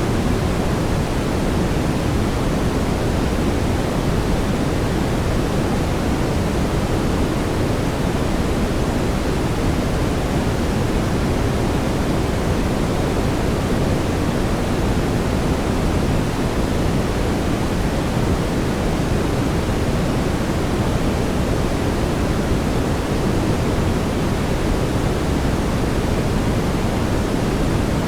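Steady brown noise: an even, deep hiss weighted toward the low end, with no changes or events.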